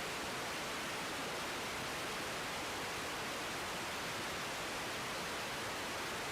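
Steady hiss of an air traffic control radio feed between transmissions, with no voice on the frequency.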